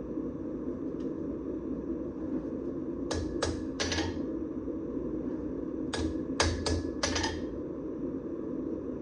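Sparse metal-on-metal hammer strikes on the anvil, three close together and then four more a few seconds later, each ringing briefly, over the steady low rush of a forge running.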